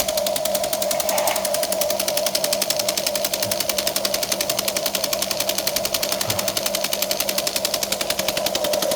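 Huina remote-control toy excavator's small electric motor and plastic gearbox whirring steadily, with a fast, even rattle over a constant whine.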